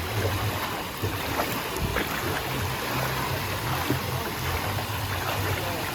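Steady rushing and splashing of running water in a water-park play area.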